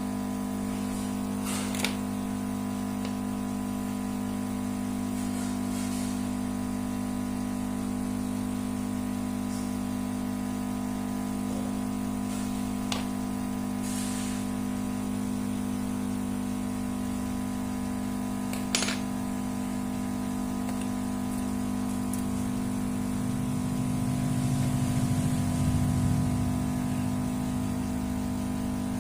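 Steady electrical hum on a few fixed low pitches, with three sharp clicks spread through it. Near the end a low rumble swells up and fades back.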